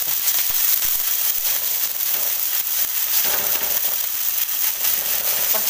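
Tur dal batter frying in oil on a hot flat griddle (tava): a steady sizzle.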